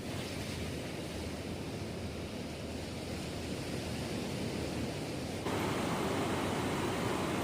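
Steady rushing of sea surf on a beach, an even wash of noise that turns abruptly louder about five and a half seconds in.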